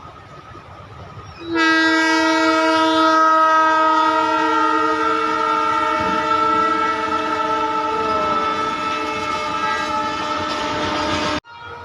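Train horn sounding one long, steady note that starts about a second and a half in, holds for about ten seconds and cuts off suddenly.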